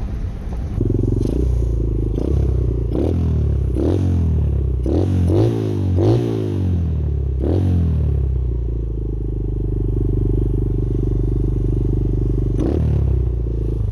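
Pit bike engine revved hard several times, each throttle blip rising sharply in pitch and falling away, for the first eight seconds or so. It then runs at a steady engine speed.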